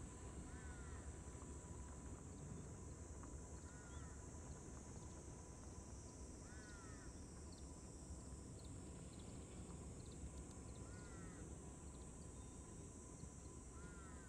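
A bird calling in the distance, about five short calls a few seconds apart, over a faint steady high hiss.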